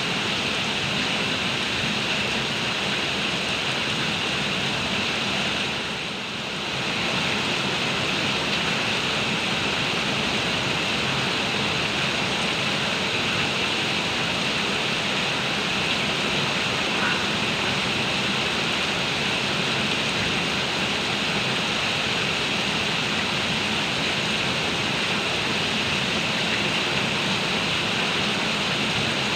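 Heavy rain pouring down steadily, dipping briefly about six seconds in.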